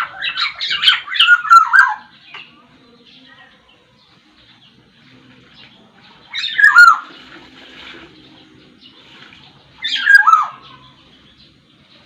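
Black-naped oriole (kepodang Sumbawa) singing: a quick run of clear whistled notes for the first two seconds, then two short calls, each sliding down in pitch, about six and ten seconds in.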